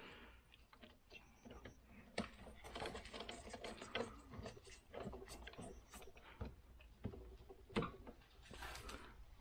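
Hand handling of small snowblower parts and tools: scattered light clicks, taps and rustling at irregular intervals.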